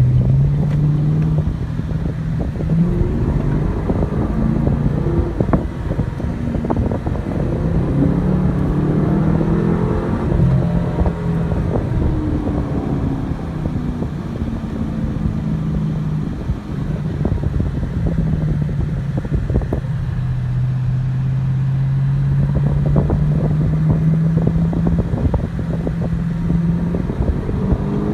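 Chevrolet Camaro SS's LS3 6.2-litre V8 running on the road, heard from on board. The engine note rises and falls with the throttle, with a long slow climb in pitch over the second half.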